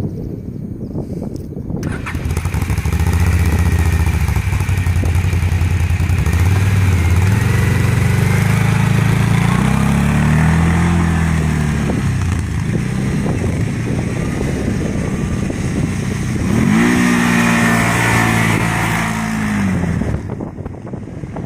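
Quad bike engine running and being revved as it rides off, its pitch rising and falling several times, with a strong rev about two-thirds of the way through. A loud rushing noise sits over the engine from about two seconds in.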